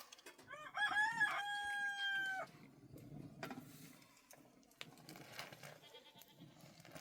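A rooster crows once, starting about half a second in: a few short rising notes, then one long held note that ends sharply at about two and a half seconds.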